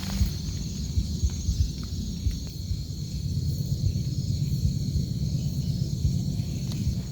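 Rain drumming on a tent or tarp: a dense, deep patter of drops with a few sharper single taps, over a steady high hiss.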